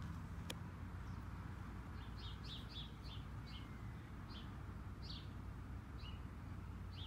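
A bird chirping in short quick notes, a run of about ten chirps starting about two seconds in and thinning out toward the end, over a faint steady background noise. A single sharp click about half a second in.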